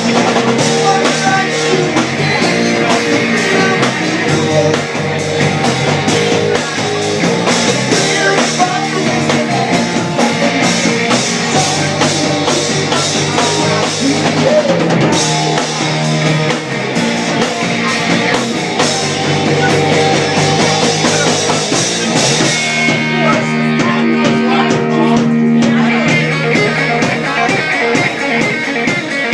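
Electric rock trio playing live: loud, continuous guitar, bass and drums. The cymbals drop out for a few seconds about two-thirds of the way through, then come back in.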